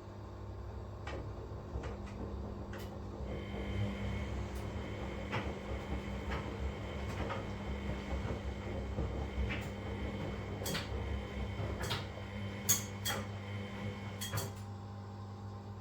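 Washing machine running a wash cycle: a steady motor hum as the drum turns, with irregular clicks and knocks from the laundry tumbling in the drum. The loudest knock comes about two-thirds of the way in.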